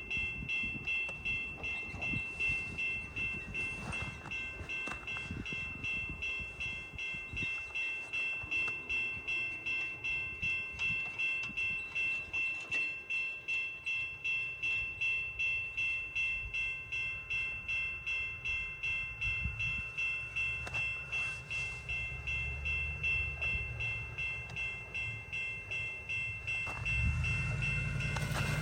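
Railroad crossing bells ringing steadily at about two strikes a second, the crossing set off without a train, which is taken to be from the dragged rail hitting the crossing's sensor. Near the end a low engine rumble comes in.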